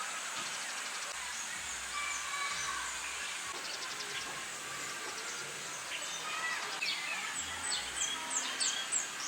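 Outdoor ambience: birds chirping over a steady hiss, with a quick run of falling chirps near the end.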